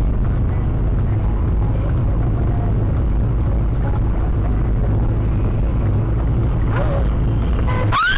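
Car driving, its engine and road noise a steady low drone as picked up by a dash cam inside the cabin, with a brief rising squeal near the end.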